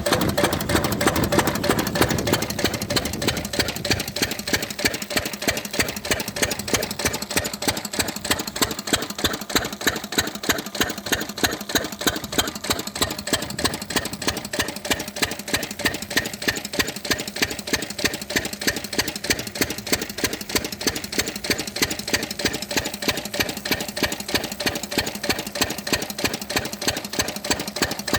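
10 hp single-cylinder stationary diesel engine running steadily, with an even knock of about three firing beats a second.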